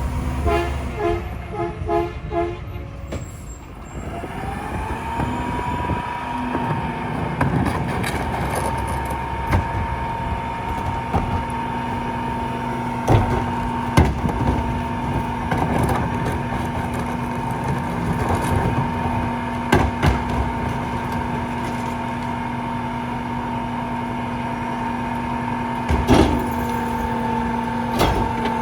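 A rear-loader garbage truck beeps steadily, about two beeps a second, for the first few seconds. Its engine then rises to a steady high run with a held whine, typical of the hydraulic packer working. Loud clanks and bangs come now and then.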